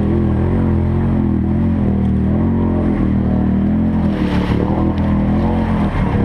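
4x4 ATV engine running under way, its pitch rising and falling gently with the throttle, with a brief hiss about four seconds in.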